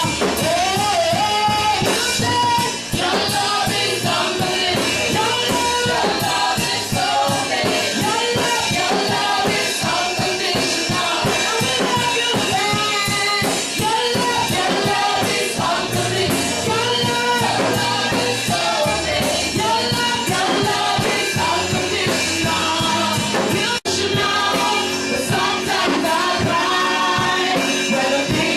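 Gospel worship song: singers with a band, a drum kit keeping a steady beat, with a momentary break in the sound about 24 seconds in.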